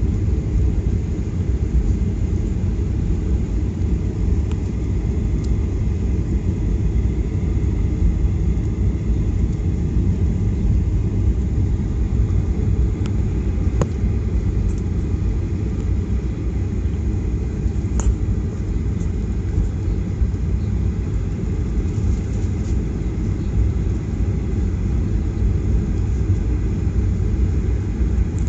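Steady low rumble of a Boeing 737-800 airliner cabin before departure, with a few faint clicks now and then.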